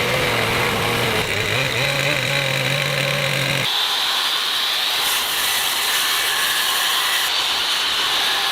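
Power tools running: a steady lower-pitched motor hum, then an abrupt switch a little under four seconds in to a different, higher-pitched steady whine.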